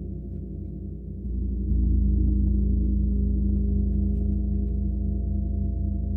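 Gong resonating in a deep, pulsing hum of many low tones. It swells louder between about one and two seconds in, then sustains.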